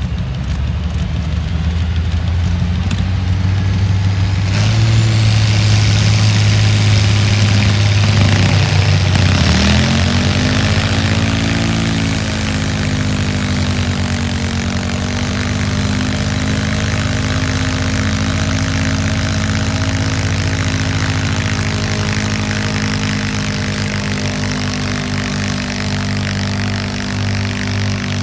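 Pulling tractor's engine running hard under load: a steady engine note that grows louder about four seconds in, climbs in pitch around ten seconds in, then holds at high revs to the end.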